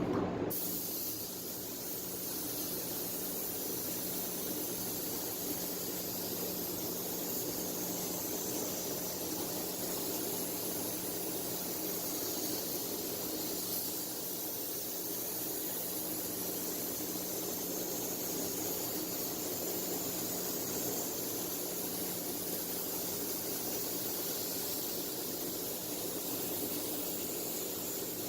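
Steady rushing hiss of air in a paint spray booth: the booth's extraction airflow and a compressed-air spray gun laying on clear coat, over a constant low fan hum.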